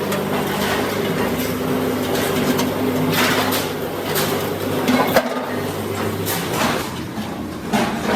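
Workshop noise: a steady machine hum, with a few sharp knocks or scrapes from metalwork about three, five and seven seconds in.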